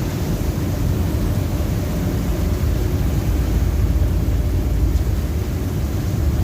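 Storm wind and heavy seas heard aboard a ship: a steady low rumble with an even hiss over it.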